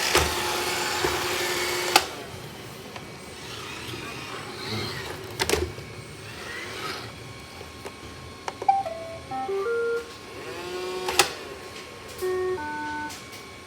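Robot vacuum running with a steady whirring hum that cuts off sharply about two seconds in, followed by a few sharp clicks. Later come two short electronic jingles of stepped beeps from the robot.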